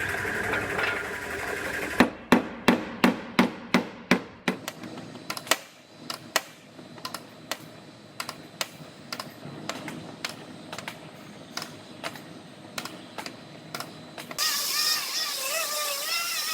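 A fast run of sharp hammer strikes on sheet metal, about four a second, then lighter, irregular taps. A warbling tone starts near the end.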